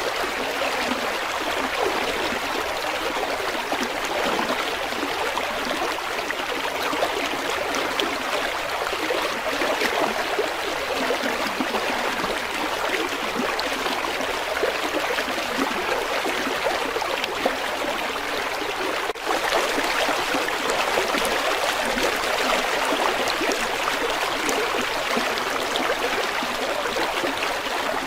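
River water flowing, a steady rushing and trickling, with a brief dip about two-thirds of the way through.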